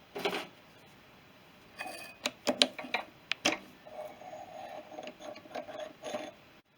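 Metal clinks and sharp knocks from a freshly turned steel part being handled and test-fitted, followed by a few seconds of scraping, rattling metal-on-metal.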